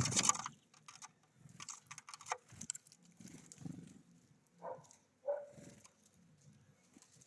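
Birds at a feeder: a loud noisy flurry at the very start, then scattered short taps and brief calls, over repeated low murmuring sounds.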